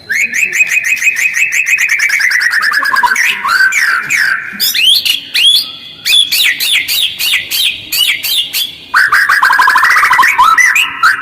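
White-rumped shama (murai batu) singing in a harsh, fast style with tight pauses, as on a lure recording. A rapid run of repeated notes, about ten a second, falls steadily in pitch over about three seconds. Varied sharp whistled phrases follow, and another fast falling run starts near the end.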